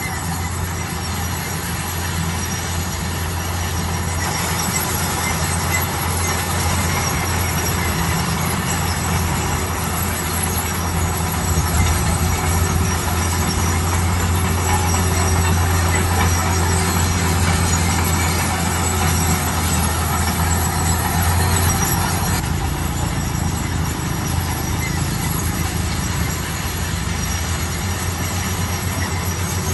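Heavy construction machinery running steadily under load, a diesel engine's low drone mixed with metallic squealing and clatter.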